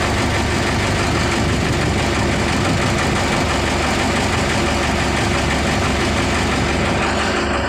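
Fishing boat's engine running steadily and loudly.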